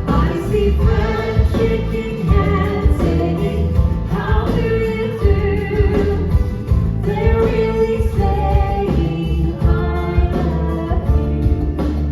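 A song performed by a singer with instrumental accompaniment, the voice holding long notes over a heavy, steady bass beat.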